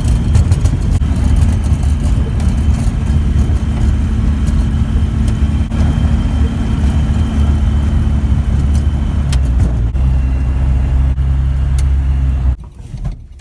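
Zenair Zodiac CH 601 light aircraft's piston engine and propeller running steadily, its tone shifting slightly partway through, then cutting off abruptly near the end.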